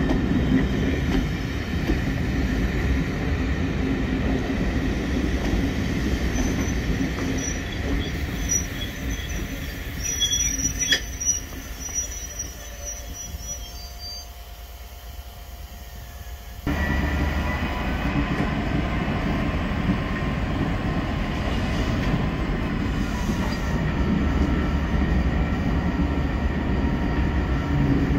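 Northern Belle train's coaches rolling slowly past on the rails, a steady rumble of wheels with a thin, high wheel squeal in the middle. The sound dips for a few seconds, then comes back abruptly at full level.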